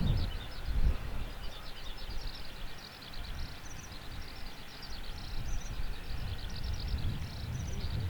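Small birds chirping steadily, many short high notes, over a low uneven rumble that dips in the middle and swells again near the end.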